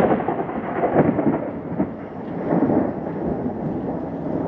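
Heavy rain pouring down in a thunderstorm: a dense rushing noise, heaviest in the low range, that swells and eases.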